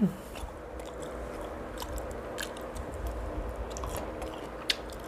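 Close-miked chewing and biting as a person eats braised pork hock by hand, with scattered wet mouth clicks and lip smacks. The sharpest smack comes near the end. A brief voiced hum sounds right at the start.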